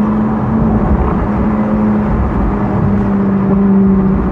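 Ferrari 458's naturally aspirated V8 cruising at steady revs in automatic mode, an even engine note over a low rumble of wind and road noise in the open cockpit.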